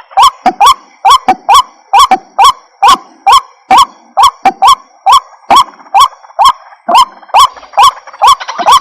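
White-breasted waterhen calling: a steady run of short, harsh 'kruak' notes, about two a second, each a quick upward-hooked note with a sharp onset.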